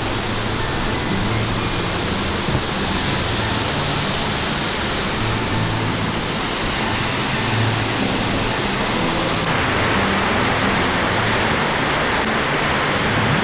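A large waterfall's steady rush of falling water. The rush gets brighter and fuller about nine and a half seconds in.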